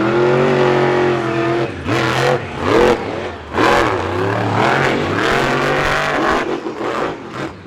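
Monster truck engine revving hard under throttle, its pitch rising and falling several times, with brief drops around two and three and a half seconds in.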